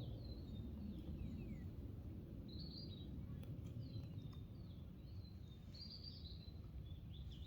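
Birds chirping in short bursts and quick falling notes over a steady low outdoor rumble.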